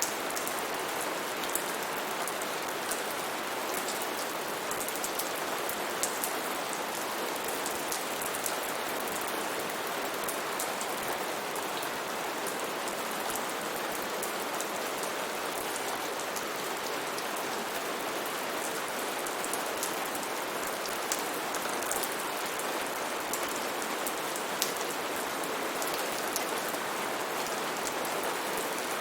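Steady rain, a continuous even hiss with many individual drops ticking sharply on a surface.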